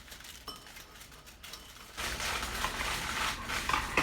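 Aluminium foil crinkling as a foil packet is folded up, starting about halfway through after a few faint clicks.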